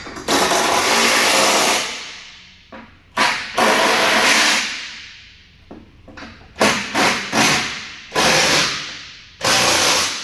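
A power driver runs bolts down in a series of short trigger bursts, about seven in all, each starting abruptly and winding down. It is tightening the bolts that hold the truck's bumper on.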